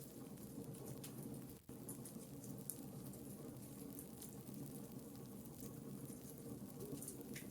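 Wood fire burning, with a steady low rumble and irregular small crackles and pops from the burning logs. The sound briefly drops out about one and a half seconds in.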